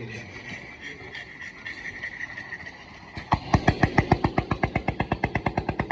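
An engine firing with loud, sharp, evenly spaced exhaust beats, about ten a second, starting suddenly about three seconds in after a faint steady whine.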